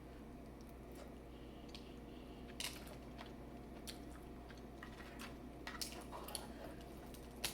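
Close-up sounds of eating a seafood boil: quiet chewing, with scattered sharp clicks and small cracks from about two and a half seconds in.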